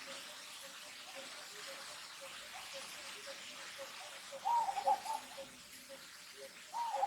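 Two quick runs of short, bouncing animal calls, one a little past halfway and one near the end, over a steady background haze with a faint rhythmic pulse about four times a second.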